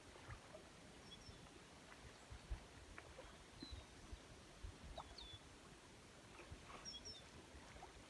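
Near silence: a faint low rumble with a few faint, short high bird chirps scattered through it.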